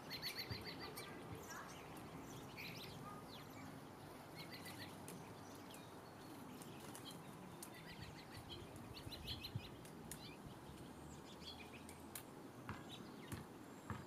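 Small birds calling: short, rapid trilled chirps every second or two over a faint steady hiss, with a few scattered faint clicks.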